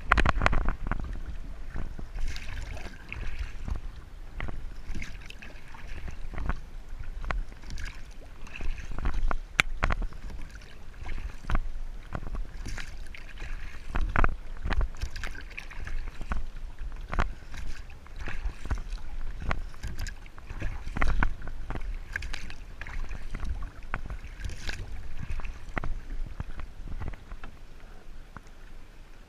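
Kayak on the water: paddle strokes splashing, with irregular sharp knocks and water slapping against the hull, over a low rumble of wind on the microphone.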